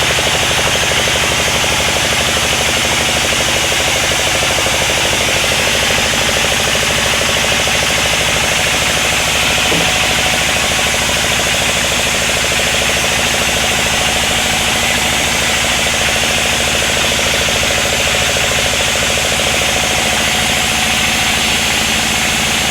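Sawmill machinery running steadily: a loud, continuous engine-driven drone with a fast, even pulse.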